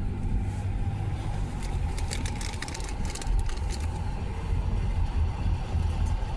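Passing train with a steady low rumble, and a run of sharp clicks about two to three and a half seconds in.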